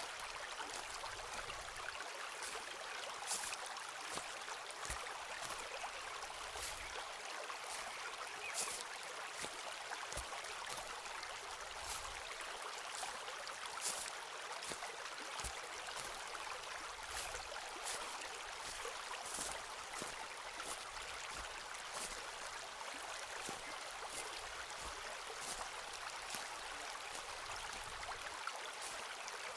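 Footsteps walking along a forest path, a short crunch every second or two, over the steady rush of a nearby stream.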